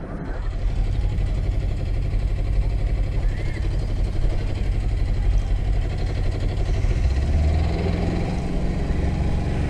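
The sailboat's Beta 13 hp inboard diesel engine running steadily under way, with a fast, even low-pitched beat.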